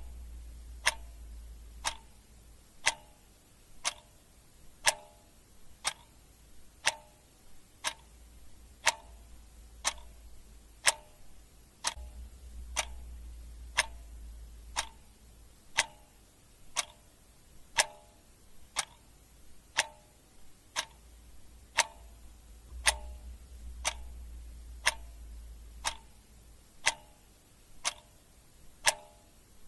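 Clock ticking steadily, about one tick a second, with a faint low hum in a few stretches.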